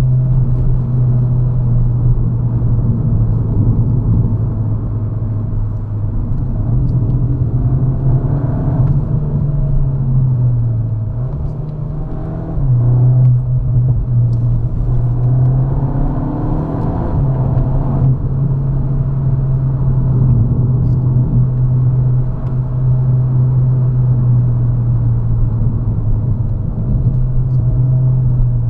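Cabin sound of a Cupra Leon VZ's 2.0 TSI turbocharged four-cylinder engine pulling along a winding road under steady throttle, with a few short rises in revs. About twelve seconds in the revs sag, then jump sharply back up.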